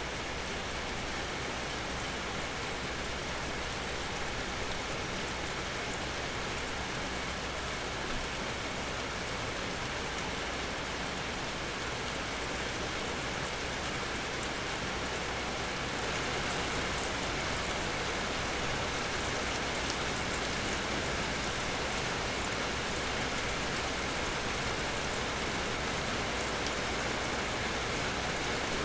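Steady rain falling, an even hiss of drops on surfaces that grows slightly louder a little past halfway.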